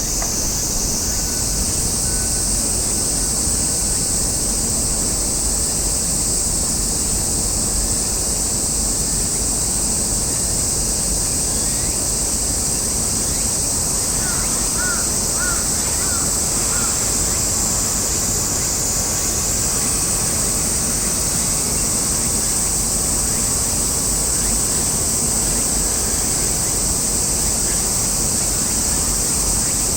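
Steady outdoor rush of wind and water by the harbour, with a loud steady high-pitched buzz above it and a few short chirps about halfway through.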